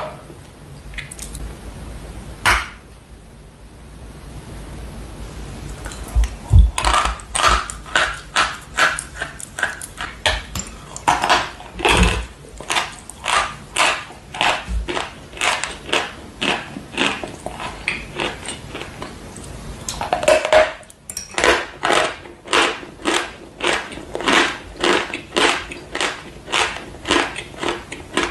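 Dry, hard chalk-like blocks being bitten and crunched in the mouth: a bite just at the start, then steady crunchy chewing at about two crunches a second from about six seconds in, with a short break a little after twenty seconds before the crunching resumes.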